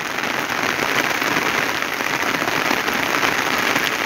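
Heavy rain pouring down on trees and muddy ground: a dense, steady hiss of a downpour at its height.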